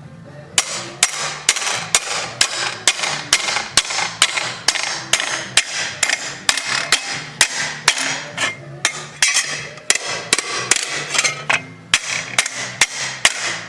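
Hammer striking a piece of steel bar to bend it over cold, a steady run of sharp metal-on-metal blows about three a second with a brief pause about two-thirds of the way through.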